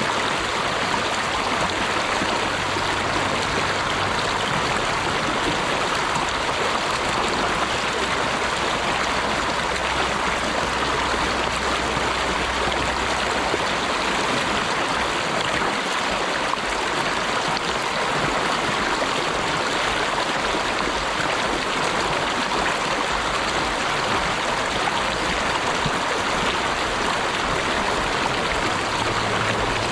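Flowing water of a stream, a steady even rush with no breaks.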